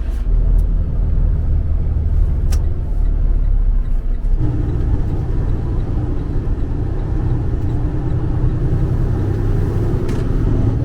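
Semi-truck's diesel engine running under way, heard from the cab as a steady low rumble. About four seconds in, the engine note rises and grows fuller, as under acceleration.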